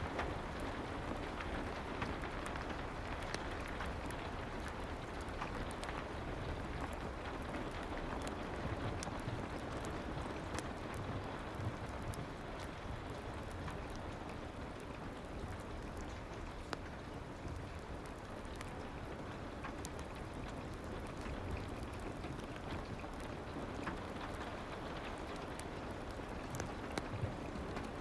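Steady soft rain, an even hiss without pauses, with scattered sharp little ticks through it.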